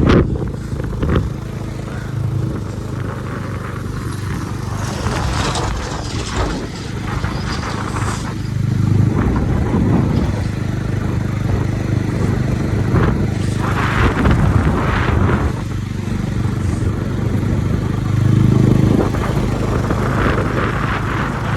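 Motorcycle engine running while being ridden, a steady low hum with road noise; the engine note swells a few times as the rider pulls on.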